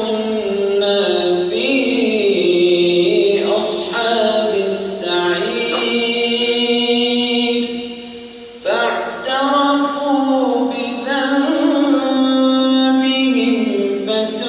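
A man's voice reciting the Quran aloud in a slow melodic chant, holding long drawn-out notes, with a short pause for breath about eight seconds in.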